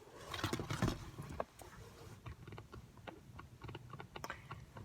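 Faint scattered clicks and rustling, busier in the first second and a half, then sparse small clicks.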